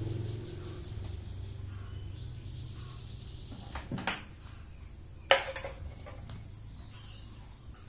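A few clicks and knocks around four seconds in, then one sharp click a little after five seconds, over a low hum that fades.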